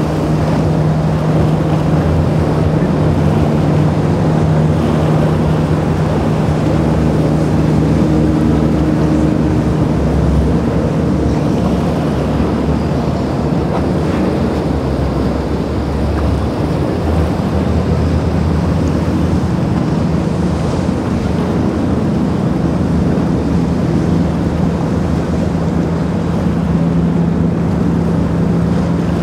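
Twin Mercury outboard motors driving a boat at steady cruising speed, a steady engine drone that weakens in the middle and comes back stronger near the end. Under it is the wash of the hull through the waves, with wind buffeting the microphone.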